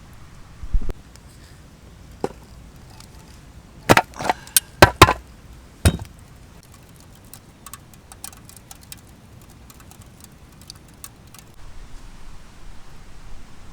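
Firewood being split or broken: a dull thump, then a single knock, then a quick run of about five loud, sharp woody knocks and cracks. Lighter small clicks and ticks follow as the pieces are handled.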